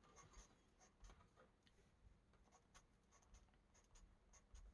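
Very faint scratching of colouring strokes on a colouring-book page: many short, quick strokes.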